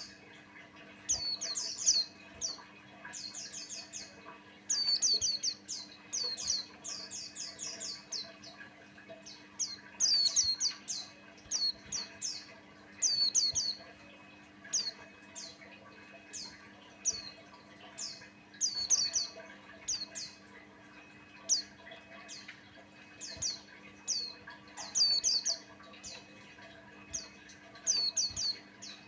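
White-eye (pleci Buxtoni) singing: rapid runs of high, thin chirping notes in short phrases about a second long, repeated every second or two.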